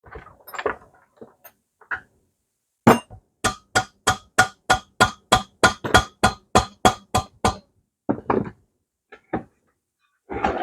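A hammer striking metal in a fast, even run of about seventeen blows, roughly four a second, each blow ringing. Scattered clinks and knocks of tools and parts come before and after the run.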